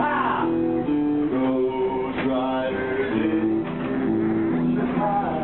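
Live music: an acoustic guitar strummed through a simple sing-along tune, its notes changing every half second or so.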